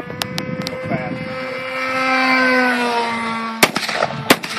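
Model airplane engine running with a high, steady whine, getting louder and then dropping slightly in pitch as the plane passes. A few faint clicks early on, then two sharp gunshots near the end, about two-thirds of a second apart, fired at the balloons it is towing.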